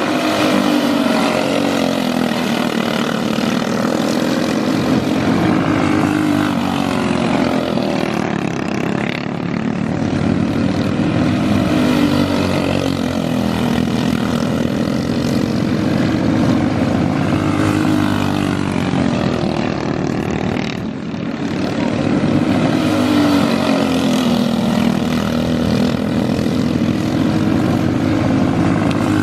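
Outlaw dirt kart's small single-cylinder engine running hard under racing load, its pitch rising on the straights and dropping into the turns every few seconds.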